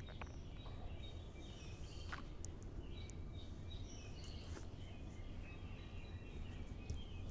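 Songbirds chirping and whistling in short, scattered calls over a steady low rumble of background noise.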